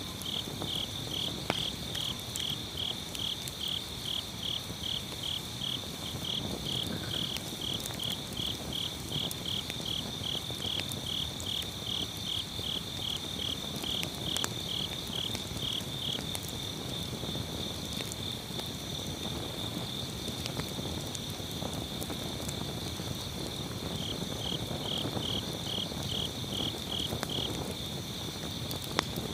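Crickets chirping in a steady pulsing rhythm, about two to three chirps a second, pausing for several seconds midway and resuming near the end. Under them, firewood burning in an agungi (traditional Korean wood-fired furnace) with scattered sharp crackles.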